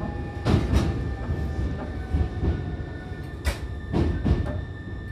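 Inside a Hankyu Kyoto Line electric train running: steady rumble of the wheels and car with a thin steady whine, broken by several sharp clacks, some in quick pairs, as the wheels pass over rail joints or points.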